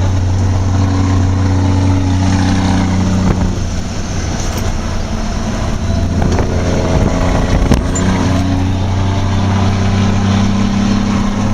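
A rescue vehicle's engine running under way, heard from inside the cabin over road noise, its pitch shifting a couple of times as it changes speed.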